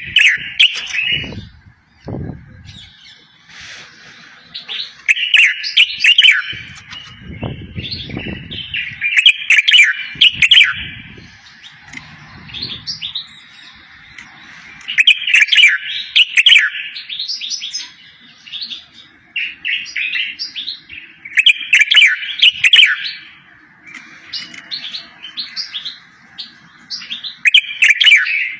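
A songbird singing in repeated phrases of fast, bright chirps and trills, each burst lasting a second or two with short gaps between, used as tutor song for training goldfinches and canaries. A few low rumbles sit under the song near the start and again about eight seconds in.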